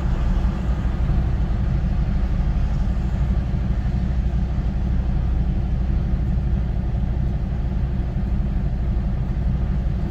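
Semi truck's diesel engine running steadily at crawling speed, a constant low drone.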